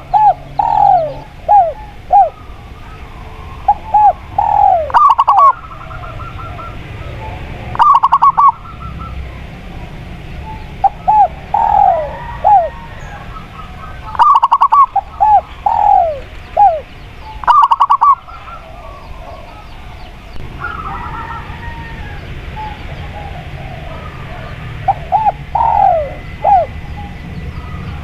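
Spotted dove and zebra dove cooing, calling in repeated phrases of short, gliding, pitched notes. The phrases come every few seconds, with a pause of several seconds past the middle, over a steady low background noise.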